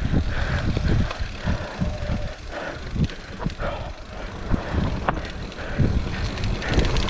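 Mountain bike descending rough, wet trail: the bike knocks and rattles over bumps again and again, over a heavy low rumble.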